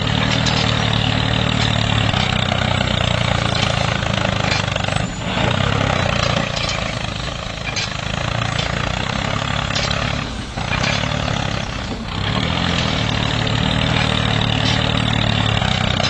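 Miniature toy tractor running with a steady engine-like drone as it pulls a cultivator through sand, dipping briefly a few times.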